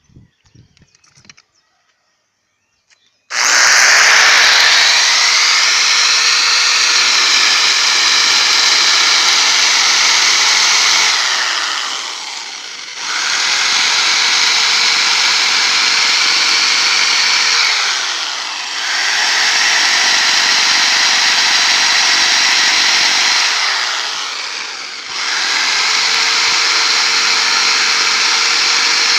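Electric drill running hard, pressed against the rebar truss of a freshly poured U-block concrete beam to vibrate the concrete and drive out trapped air. It starts about three seconds in, and its speed sags and picks up again three times.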